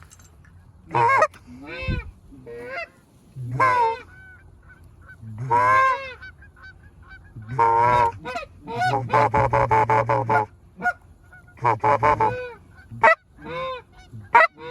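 Canada goose honks: a series of loud, separate honks, each rising then falling, with a fast run of clucking honks about nine to ten seconds in.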